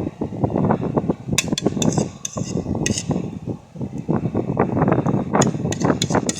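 A spoon clinks against a dish in two short clusters of sharp taps, over a constant low rumble.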